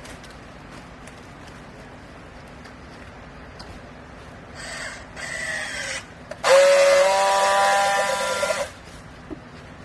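Hydraulic baler running with a steady hum, then, about halfway through, a loud high-pitched squeal held for about two seconds that cuts off suddenly.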